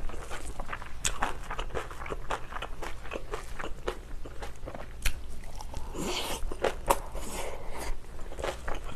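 Close-up crunching and chewing of spicy napa cabbage kimchi, many short crisp crunches in quick succession, with a longer hissing stretch about six seconds in.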